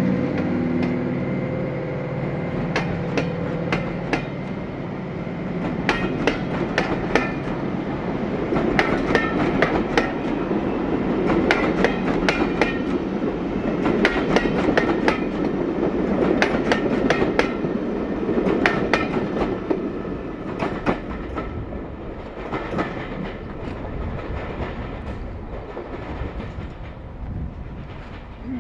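Diesel train passing: the engine's steady drone fades in the first couple of seconds. Then the coaches' wheels clatter over the rail joints in repeated pairs of sharp clicks, over a rolling rumble that slowly fades as the train moves away.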